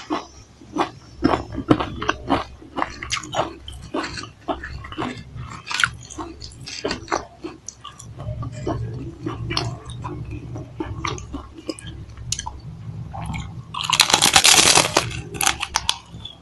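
Close-miked crunching and chewing of Pringles potato crisps: many sharp crackles as the chips are bitten and chewed. A louder burst of noise comes about 14 seconds in.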